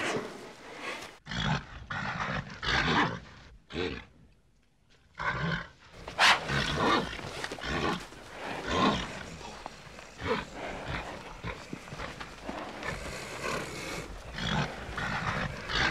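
Oxen or bulls bellowing and grunting in a string of short calls, with a brief lull about four seconds in.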